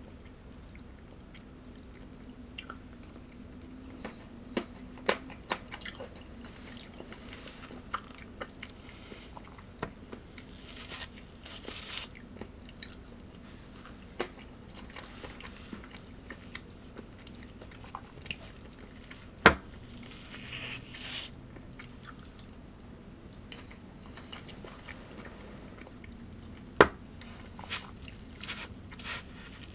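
A person chewing and biting food at close range, with irregular crunches and small clicks. Two sharp, louder knocks stand out, about two-thirds of the way through and near the end.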